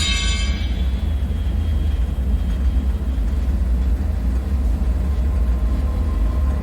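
Steady deep, low rumble of a dark bunker ambience drone, with the ringing tail of a metallic strike fading away in the first second. Faint steady tones come in near the end.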